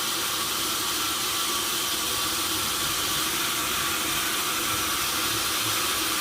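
Sawmill saw and machinery running: a steady, even hiss with no distinct strokes or changes.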